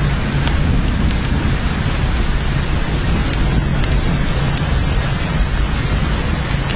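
Heavy rain falling steadily, with scattered sharp drop ticks over a continuous deep low rumble.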